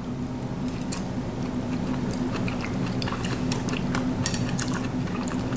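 A person chewing a mouthful of sesame chicken, small wet chewing clicks over a steady low hum in the room.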